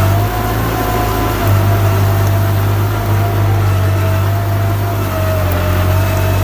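Kubota tractor's diesel engine running steadily while ploughing, a low drone with a thin whine above it that wavers slightly in pitch.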